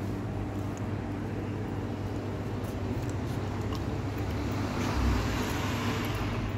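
Motor vehicle engine running steadily amid road traffic noise, which swells about five seconds in.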